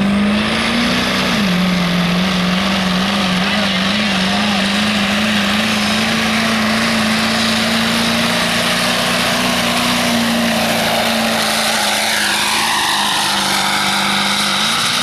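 Pulling truck's engine running hard at high revs under load. Its pitch dips about a second in, then holds and climbs slowly, with loud mechanical noise throughout.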